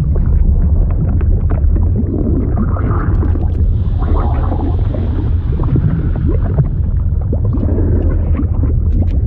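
Flowing-liquid sound effect: a steady deep rumble with bubbling, gurgling pops throughout.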